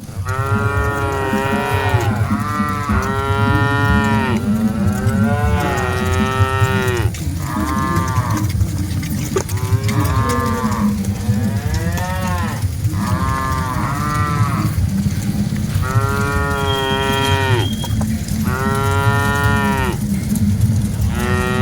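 Cattle mooing over and over: about a dozen long, drawn-out moos, one every second or two, over a steady low rumble.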